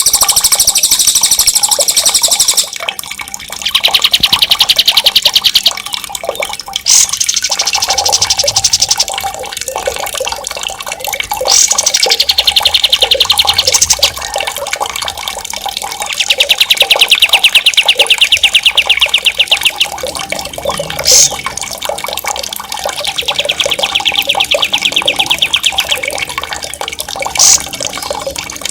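Songbird rolling trills ('ngerol'): about six long, very fast high-pitched rolls of two to four seconds each, alternating between a higher and a lower pitch, with a short sharp whistled note between them twice. Running water plays under the song throughout.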